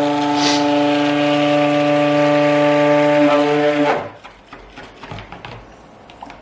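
Immersion stick blender running steadily, mixing lye water into the oils and butters to emulsify the soap batter, then switched off about four seconds in. Light knocks and handling noises follow.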